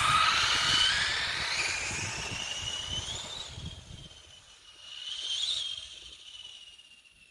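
High-pitched whine of an Arrma Limitless RC car's brushless motor, rising in pitch as it accelerates, then falling away. A second, shorter rise and fall comes about five seconds in. Wind rumbles on the microphone for the first few seconds.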